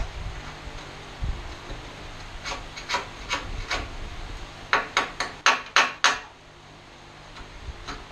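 Scraping on the band saw's rusted pan in two runs of quick, rasping strokes, about three seconds in and again near five seconds.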